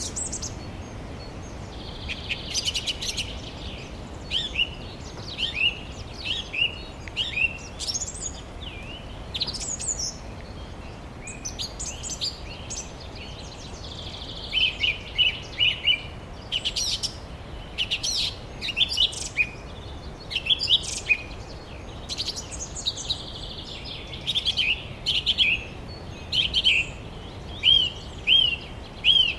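Birds chirping throughout in short, high, downward-sliding notes, some in quick runs of three or four, the loudest near the end, over a steady low background rush.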